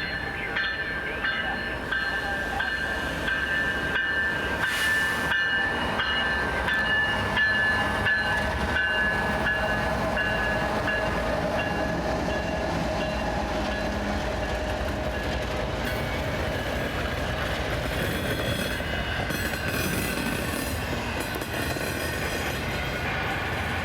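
A train rolling past with a steady rumble, overlaid by sustained high tones that drift slightly lower during the first half and fade by the end.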